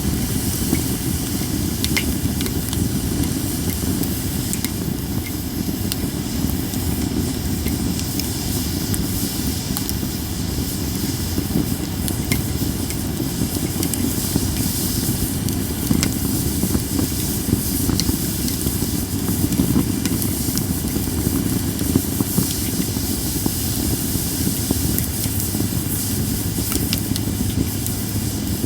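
Japanese cedar (sugi) wood burning in a campfire: a steady hiss with an occasional sharp crackling pop.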